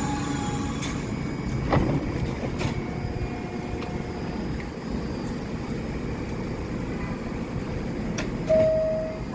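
New York City Subway 1 train running along the track with a steady rumble, a sharp clank about two seconds in, and a short high tone near the end.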